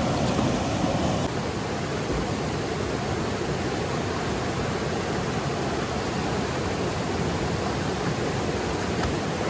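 Steady rushing of water, easing slightly about a second in.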